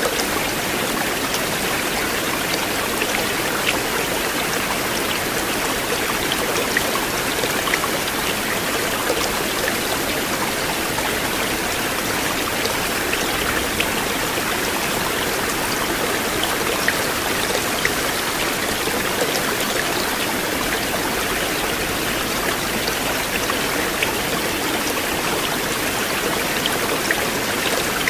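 River water flowing steadily: a continuous rush with small splashes and trickling ticks scattered through it.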